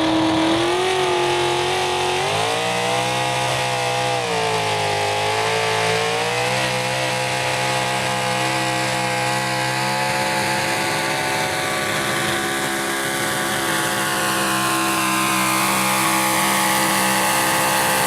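Super stock two-wheel-drive pulling truck's engine at full throttle through a pull: its pitch wavers up and down for the first several seconds, then holds at a high, steady rpm.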